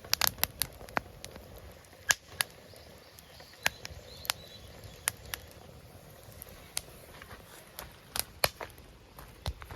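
Wood campfire crackling, with irregular sharp pops and snaps over a low hiss.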